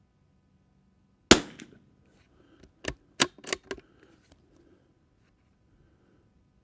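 A single shot from a .22 LR bolt-action rifle, the Tikka T1X, a sharp crack with a short echo about a second in. About a second and a half later comes a quick run of four or five metallic clicks, typical of the bolt being worked to eject the case and chamber the next round.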